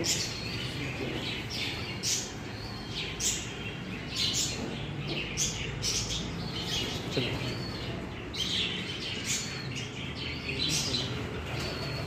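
Birds chirping: short, high chirps repeating about once or twice a second, over a faint low hum.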